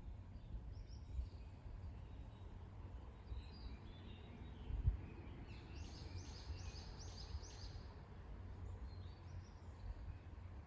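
Songbirds singing faintly, with a run of about six quick repeated notes a little past the middle and scattered calls before and after, over a steady low outdoor rumble. One short thump about halfway through.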